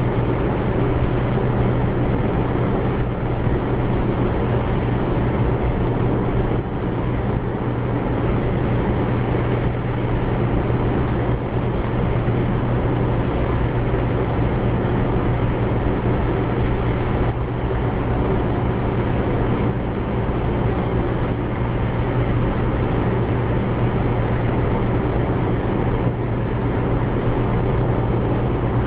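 Steady road and engine noise inside a moving car, with a constant low drone.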